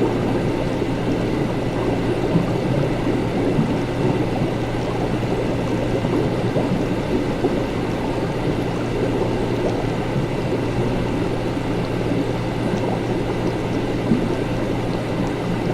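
Laboratory ambience: liquid bubbling and gurgling without a break over a steady low hum.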